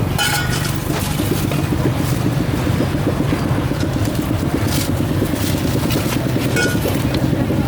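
A small engine running steadily with a fast, even pulse, and a few short sharp clatters over it.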